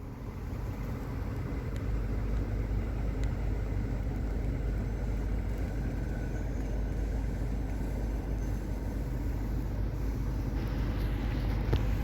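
2009 Nissan Altima driving: a steady low engine and road rumble that builds over the first two seconds, then holds even.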